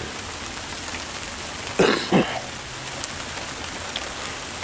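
Steady rain falling, heard as an even hiss, with a short throat clearing about two seconds in.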